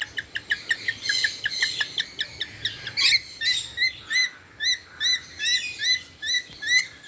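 Lories, small brush-tongued parrots, chirping in their aviary. A quick string of short chirps comes first, then from about three seconds in a steady run of short up-and-down chirps at about three a second.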